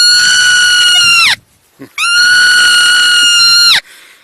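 An animal screaming: a long, loud shriek held at one pitch breaks off about a second and a half in, and a second, nearly two-second shriek at the same pitch follows half a second later.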